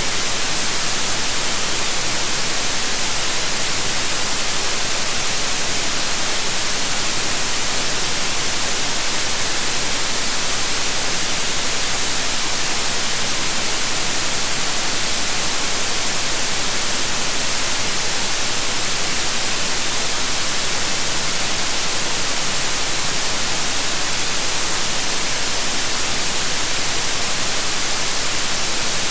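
Steady electronically generated white noise: an even, unchanging hiss, strongest in the treble.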